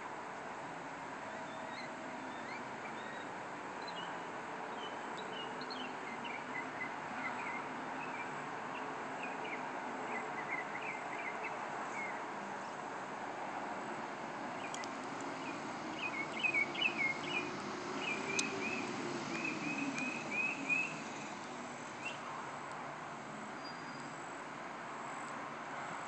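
Small birds chirping in quick series of short, high notes, scattered at first and loudest and most frequent about two-thirds of the way through, over a steady background noise.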